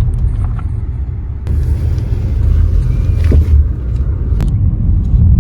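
Car driving, heard from inside the cabin: a steady low rumble of engine and road noise, with a stretch of louder hiss in the middle and a single sharp click near the end.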